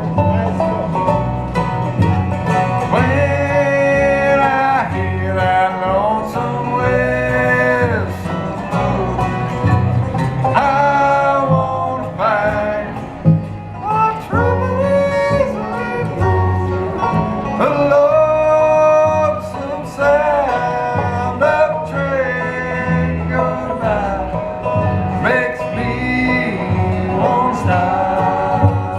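Live bluegrass band playing with banjo and mandolin, a voice singing over the plucked strings and a steady low rhythm.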